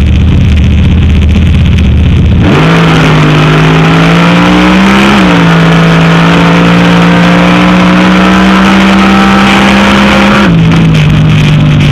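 400 cubic-inch Chevrolet V8 in a Honda drag car, heard loud from inside the cabin. A rough low rumble gives way, about two and a half seconds in, to a rising engine note. The note then settles into a steady mid-rev drone that eases down slightly twice.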